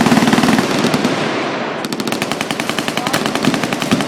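Fully automatic machine-gun fire in long, continuous strings of rapid shots with no pause. The character of the firing changes a little under halfway through.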